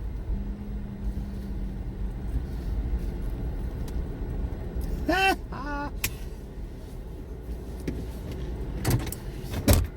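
Vehicle engine running at low speed, a steady low rumble, with two short pitched sounds about five seconds in and a few sharp clicks near the end.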